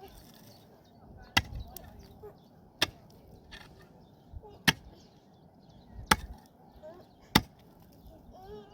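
Wood being chopped: six sharp blows about a second and a half apart.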